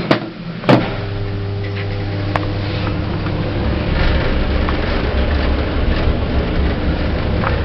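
Passenger lift doors knock shut under a second in, then the lift car travels upward with a steady low hum and a low rumble that builds a few seconds in.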